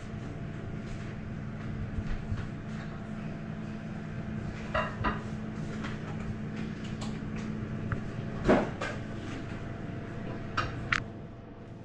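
Kitchen handling sounds: a handful of short knocks and clinks, like dishes, pans and utensils being moved, over a steady low hum, with the loudest knock about two-thirds of the way through.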